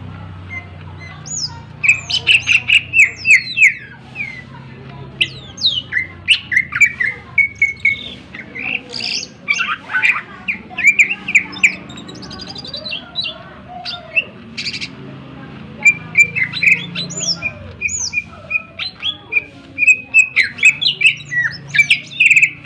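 Greater green leafbird (cucak ijo) singing at full volume: rapid runs of sharp chirps, whistles and trills with mimicked phrases worked in, in bursts broken by short pauses. This is the loud, agitated full song that keepers call 'gacor'.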